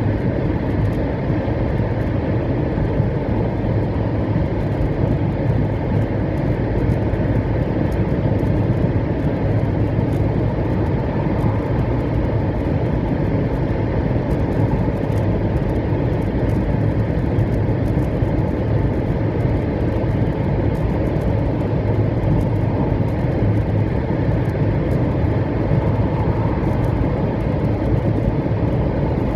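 700 Series Shinkansen heard inside the passenger cabin while running: a steady, even rumble with a low hum.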